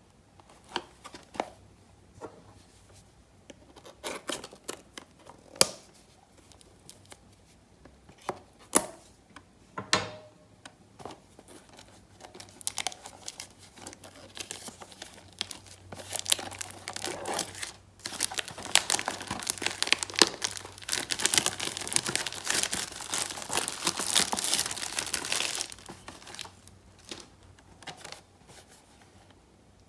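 Wrapping on a trading-card box being torn open and crinkled by hand. There are a few separate rips and taps over the first ten seconds, then a long stretch of steady crinkling and tearing that stops about four seconds before the end.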